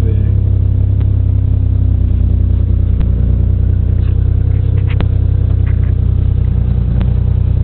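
1987 Pontiac Firebird Trans Am's V8 engine idling steadily with a low, even rumble, just started after its flat battery was charged.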